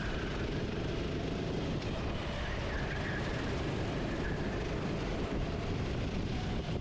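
Racing kart engine running at speed, recorded onboard, with steady wind noise on the microphone.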